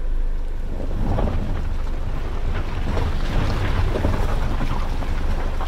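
A 2014 Jeep Compass engine pulling up a muddy bank, its street tires spinning and throwing dirt. It comes through as a steady rumble mixed with wind buffeting the microphone, with a few short crackles.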